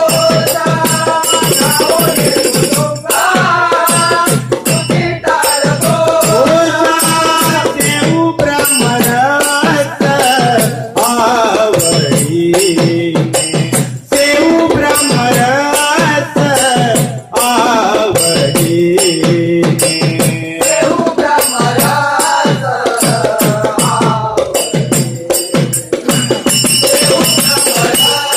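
A group singing a devotional bhajan over a fast, steady beat of hand percussion with jingling, ringing metal.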